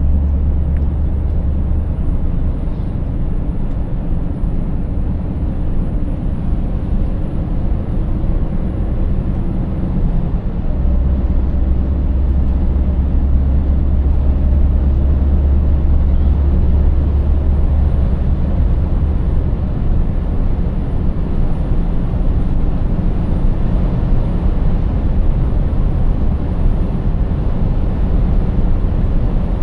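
Scania 590S truck's 16-litre V8 diesel engine running steadily on the road, with tyre and road noise; its deep low drone strengthens from about eleven seconds in for several seconds, then eases.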